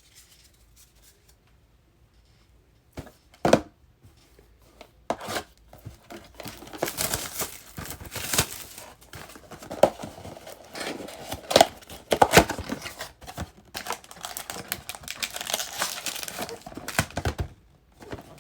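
Plastic wrapping of a trading-card pack crinkled and torn open. It is quiet at first, then a sharp click, then dense irregular crinkling and tearing from about five seconds in.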